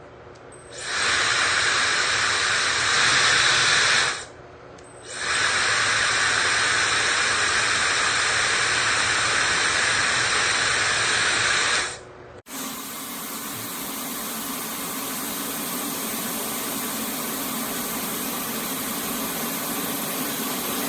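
Laifen Hair Dryer SE's high-speed brushless motor blowing air with a steady hiss, switched on about a second in, off for about a second around four seconds, then on again until about twelve seconds. After a sudden cut, a different, deeper steady rushing noise runs on.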